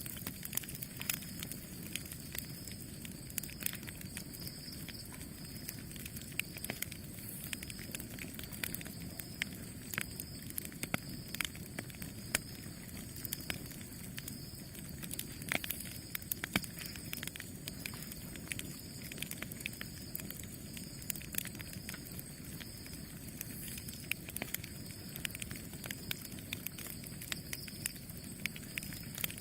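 Campfire burning: a steady low rush of flames with frequent irregular sharp crackles and pops of burning wood.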